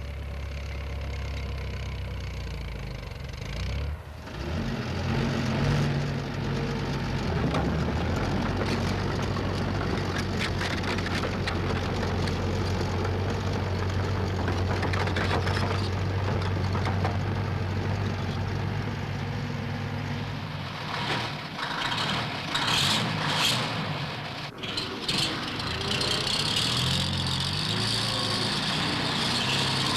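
Heavy machinery engine running steadily. About two-thirds of the way through come a few sharp knocks, and a hiss rises near the end.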